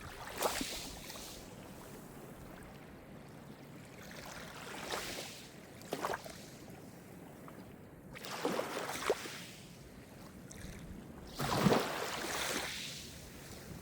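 Calm Mediterranean surf: small waves lapping and breaking on the shore in a series of short splashes every couple of seconds, the biggest one near the end, over a steady low wash of water.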